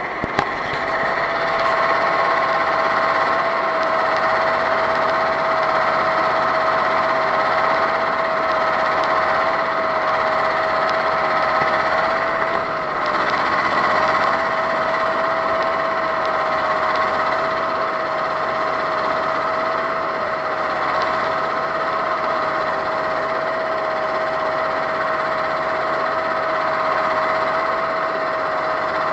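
Vehicle engine running at a steady speed with a constant whine and no change in pitch, under a rough mechanical noise; a short knock comes about half a second in.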